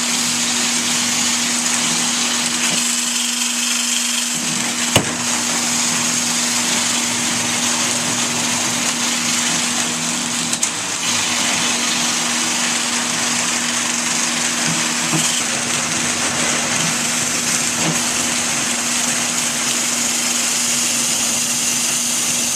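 Motor-driven rotary dryer vent cleaning brush spinning inside a plugged dryer duct, running steadily with a constant hum and a hiss as it scours out lint. One sharp knock about five seconds in, and the motor stops suddenly at the very end.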